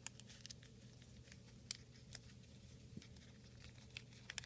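Faint scattered crinkles and light ticks of folded origami paper being handled and tucked together, with a few slightly louder ticks near the end, over a steady low hum.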